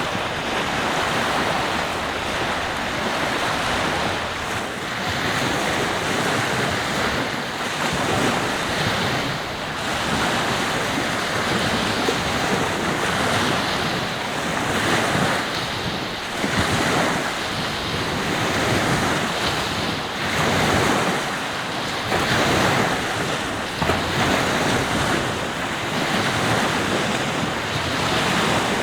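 Surf breaking and washing up a beach, swelling and easing every few seconds, with wind buffeting the microphone.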